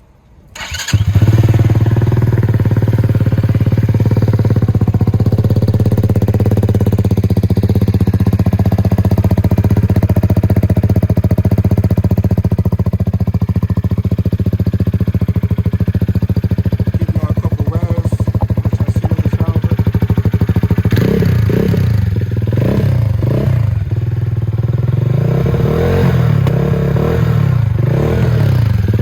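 Vitacci XMT 250cc motorcycle engine starting up about a second in, then idling steadily through its aftermarket Akrapovic exhaust muffler. From about two-thirds of the way through, the throttle is blipped several times, the pitch rising and falling with each rev.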